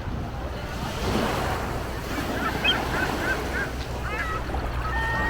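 Ocean surf washing steadily, with wind on the microphone. Midway there is a run of short high chirps, and near the end a thin steady whistle-like tone.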